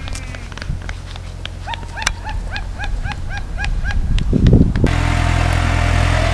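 A small dog yapping in a quick run of about ten short yaps over the steady hum of a tractor engine. Near the end the engine noise steps up suddenly and stays louder.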